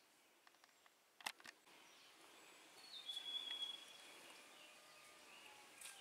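Faint woodland ambience with birds calling, including a thin, held whistled note about three seconds in. Two sharp clicks sound just over a second in.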